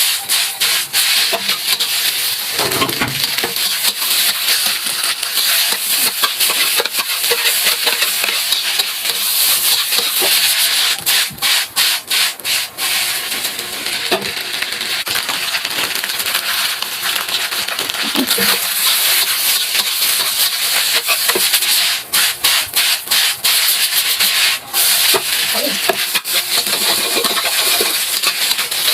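Fried rice with egg, carrot and sausage sizzling in a hot pan while a spatula stirs and scrapes it: a steady loud hiss with short dips now and then.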